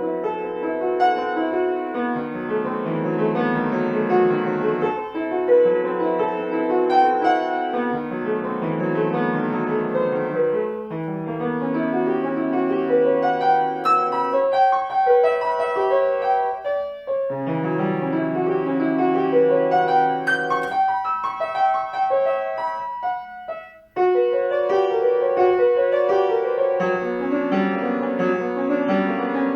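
Solo piano playing a piece, with melody over a moving bass line. The playing breaks off for a moment about three quarters of the way through, then resumes at full strength.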